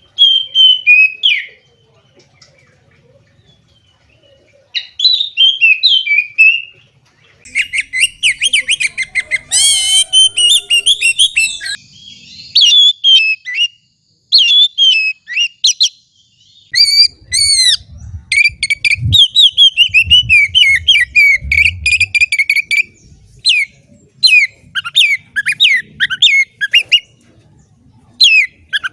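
Oriental magpie-robin (kacer) singing loudly in bursts of varied whistles, rapid trills and sharp notes, with short pauses between phrases.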